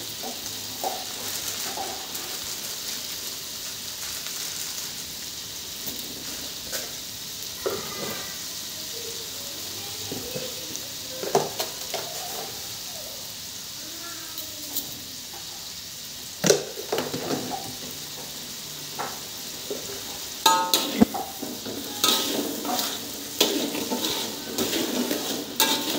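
Chili sambal paste sizzling steadily in hot oil in an aluminium wok. In the last few seconds a metal spatula stirs it, scraping and clicking against the wok.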